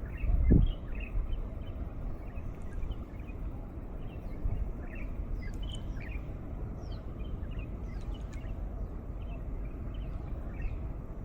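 Breeze rumbling on the microphone under many short, scattered bird chirps. A brief low thump about half a second in is the loudest sound.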